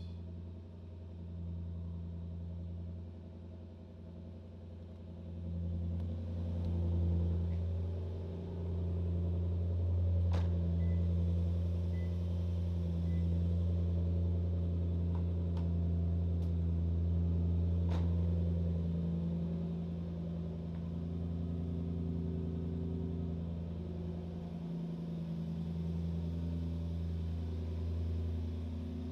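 Toyota Crown Majesta's 4.3-litre V8 idling steadily through a modified aftermarket exhaust, a deep, even low hum.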